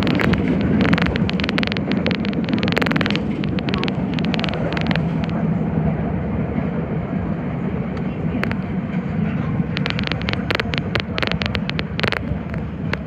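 Nagoya subway Higashiyama Line 5050 series train running steadily, with a continuous rumble. Rapid sharp clicking or crackling comes in clusters during the first few seconds and again near the end.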